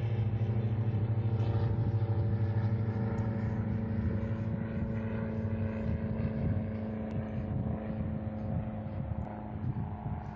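A steady engine drone with a low hum and its overtones, slowly fading over several seconds.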